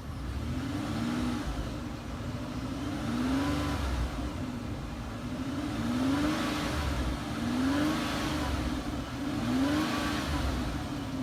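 2007 Mercury Mariner's V6 engine revved again and again, about six times, the pitch rising with each press of the throttle and falling back toward idle. The engine, with 176,000 miles on it, runs well.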